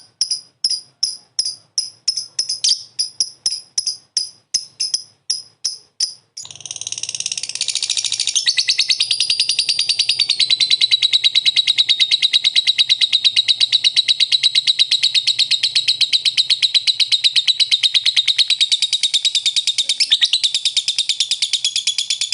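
Lovebird singing: a string of sharp, high chirps about three or four a second, then, about six seconds in, one long unbroken rapid trill, the 'ngekek' chatter that lovebird keepers prize.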